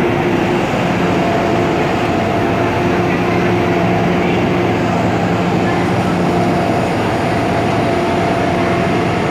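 MTR M-Train electric multiple unit running, heard from inside the passenger car: a steady rumble of wheels on track with the traction motors' hum, whose tones shift about three seconds in and again near the end.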